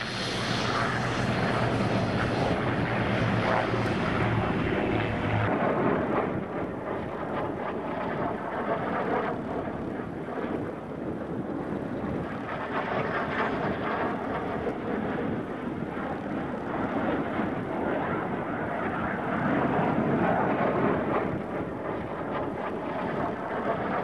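North American F-86 Sabre turbojet fighter running, a loud continuous rushing that swells and eases. A steady low hum underneath cuts off about five seconds in.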